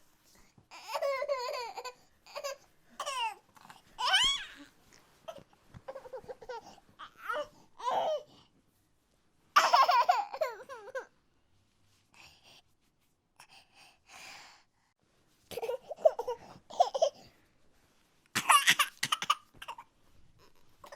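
A small child's voice laughing and babbling in short high-pitched bursts, with a few seconds of pause about midway.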